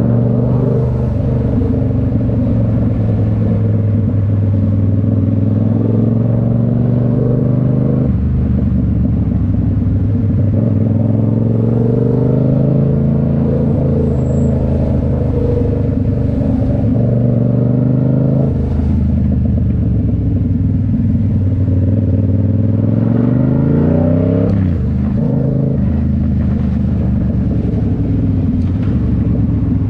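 Yamaha MT-07's parallel-twin engine running through a Toce full exhaust while riding. The engine note climbs under throttle and falls back several times, with the clearest rise and sharp drop about four-fifths of the way in.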